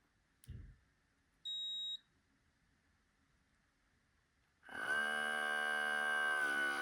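OutIn Nano portable espresso machine giving one short high beep as its button is held, then a few seconds later its pump starting up with a steady hum, pushing out the water left inside. A faint knock comes just before the beep.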